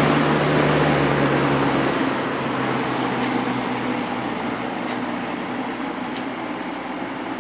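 Kel Aire Model 7000 box fan with its three-speed McMillan motor running, freshly cleaned and oiled: a steady motor hum and blade noise that slowly grows quieter and lower as the fan slows, with a few faint ticks.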